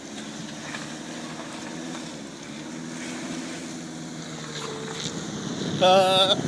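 Volkswagen 4Motion car's engine running steadily under load as it creeps slowly up a steep dirt trail. A brief loud shout cuts in near the end.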